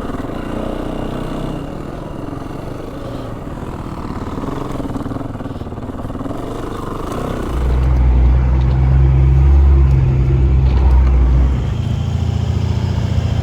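Trail motorbike engine running while riding. It gets markedly louder and deeper for about four seconds from a little past halfway.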